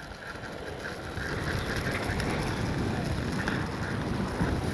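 Strong gusting wind buffeting a microphone fitted with a wind muff: a low rushing noise that picks up about a second in.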